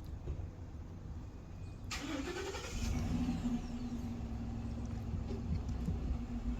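A car engine starts about two seconds in with a short burst of noise, then settles into a steady idle hum.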